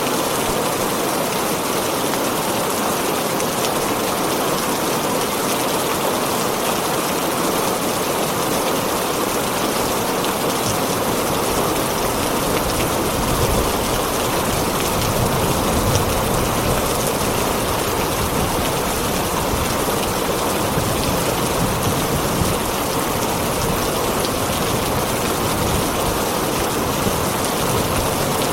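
Heavy rain falling steadily on a tin roof, a dense unbroken hiss of drops, with a low rumble swelling in the middle.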